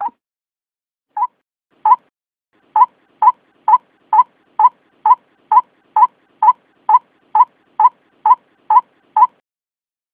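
White-breasted waterhen (ruak-ruak) lure call: short repeated notes, a few spaced out, then a steady run of about two a second that stops near the end.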